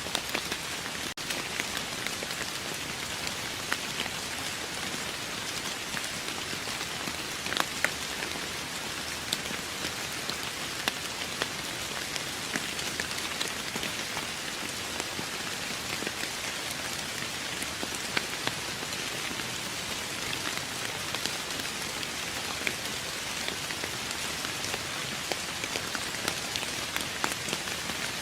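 Steady rain falling on a surface: a dense, even hiss with many individual drops ticking sharply through it.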